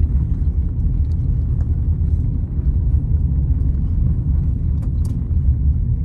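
Steady low rumble of a car on the move, road and engine noise heard from inside the cabin, with a couple of faint ticks about five seconds in.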